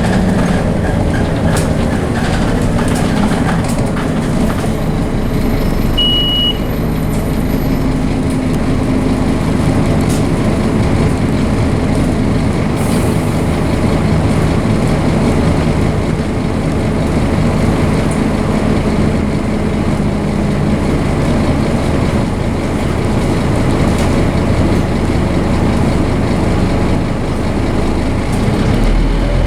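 Scania DC9 five-cylinder diesel engine of a Scania OmniCity double-decker bus running hard under load, its pitch shifting up and down as the bus accelerates. A short high beep sounds once about six seconds in.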